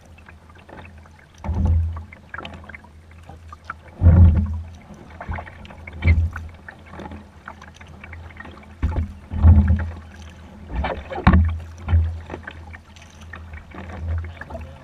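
Kayak paddling through floodwater: irregular paddle splashes with low thumps every one to three seconds.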